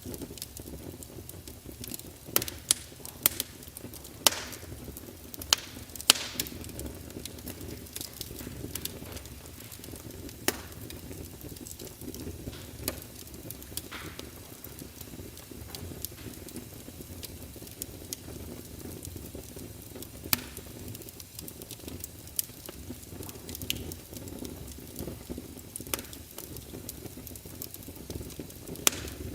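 Wood fire crackling: a steady low rumble of burning with sharp pops and snaps scattered at irregular intervals, a cluster of louder pops in the first several seconds.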